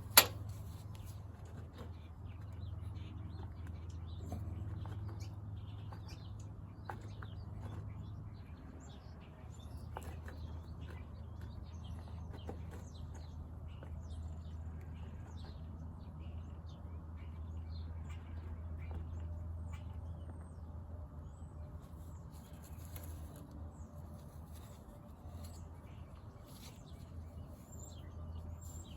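A steady low hum with scattered faint clicks and small chirps, and one sharp click at the very start.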